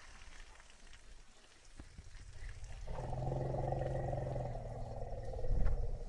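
Asian elephant giving one steady, roar-like call of about two and a half seconds, starting about three seconds in. A low thump comes near the end.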